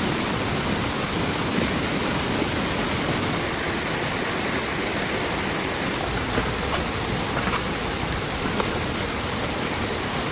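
Heavy rain pouring steadily, with a few sharper drop hits now and then.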